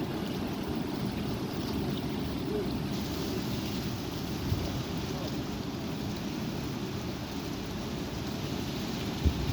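Strong gusty wind blowing across the microphone, a steady low rumbling rush, with two brief thumps, one midway and one near the end.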